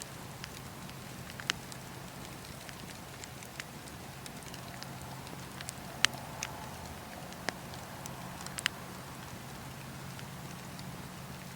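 Campfire burning: wood crackling with scattered sharp pops over a steady low hiss, the loudest pop about six seconds in.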